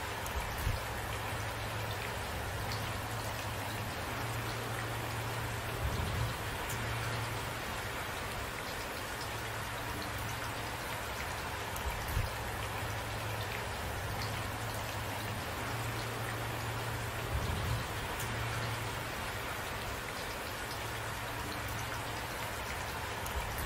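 Steady rain falling, an even hiss of drops, with a short louder knock of a drop or drip about every six seconds.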